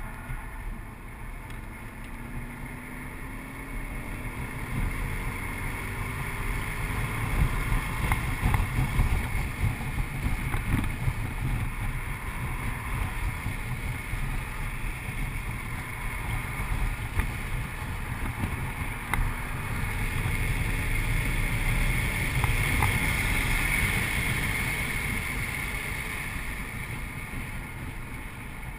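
2008 Audi RS4's 4.2-litre V8 running hard at track speed, heard from inside the cabin with road and wind noise. The engine sound builds under acceleration, backs off, and builds again to its loudest a little past the middle before easing toward the end.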